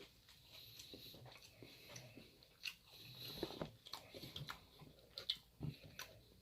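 A person chewing and biting food close to the microphone, with short, faint crunches and mouth clicks scattered through it. The strongest crunch comes a little past five seconds in.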